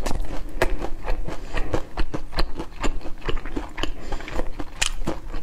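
A person chewing crispy fried chicken: a steady run of crunchy clicks, several a second.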